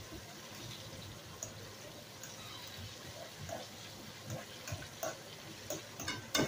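Ground turkey sizzling in a pot while a metal utensil stirs and mashes it, scraping and clinking against the pot. The clinks come more often in the second half, with a sharp knock near the end.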